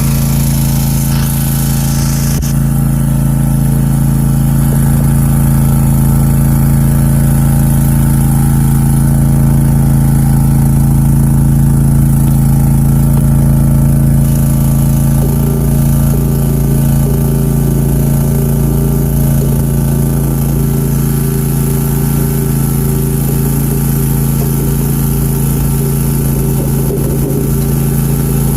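Country Clipper zero-turn mower's engine running steadily at a constant speed, a loud even drone that holds one pitch throughout.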